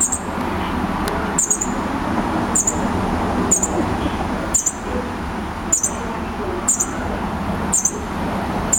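Baby bird giving short, high begging chirps about once a second, calling for food.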